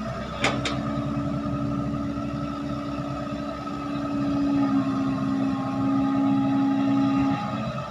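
Heavy diesel machinery engine running steadily, louder for a few seconds in the middle and easing off near the end, with two sharp clicks about half a second in.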